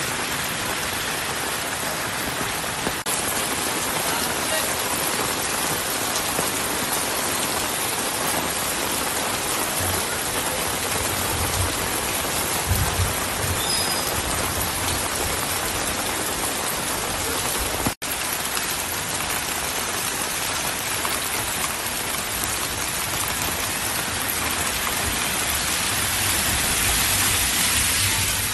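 Heavy rain pouring onto a street, a dense, steady hiss that cuts out for an instant about two-thirds of the way in.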